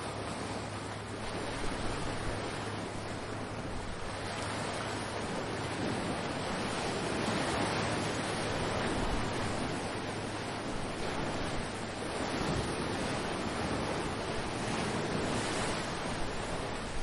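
Ocean waves breaking and washing ashore in a steady surf, swelling and easing every few seconds, with some wind on the microphone.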